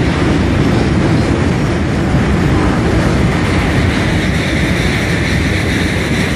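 Freight train of rail tank wagons rolling by, a loud steady rumble with no distinct clacks or breaks.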